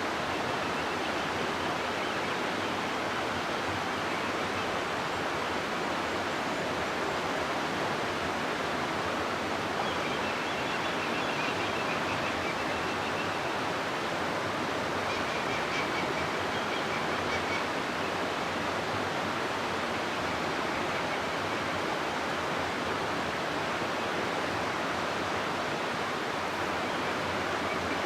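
River water rushing steadily through a rocky gorge: a constant, even hiss of flowing water.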